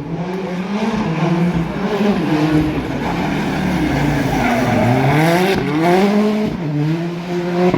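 Rally car engine on a special stage, revving up and down in quick steps, then accelerating hard with its pitch climbing through two or three upshifts.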